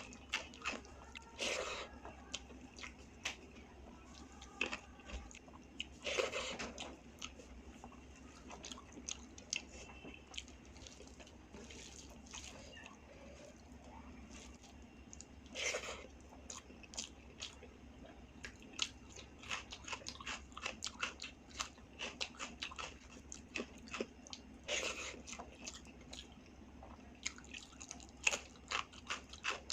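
Close-miked chewing and mouth sounds of someone eating a meal of rice, dal and vegetable curries, with a few louder crunchy bites spread through.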